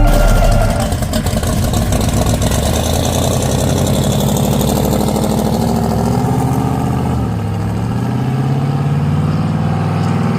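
Car engine running, its pitch climbing slowly, dropping back about seven seconds in and then climbing again.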